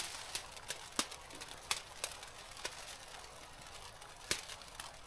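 Irregular sharp clicks and ticks, about seven or eight of them scattered through, over a faint steady hiss.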